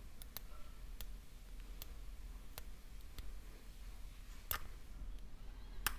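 Scattered light clicks and taps, about eight at irregular intervals, from small repair tools and the phone being handled on the bench, over a faint room hum.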